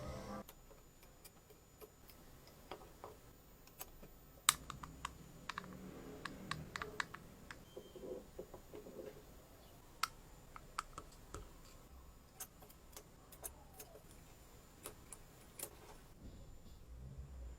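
Faint, irregular clicks and light taps of small parts of a mini engine model being handled and fitted together, a few sharper than the rest.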